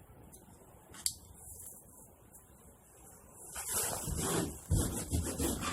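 Rubbing strokes on the repaired wall surface: a quick, irregular series starting about three and a half seconds in, after a single short click about a second in.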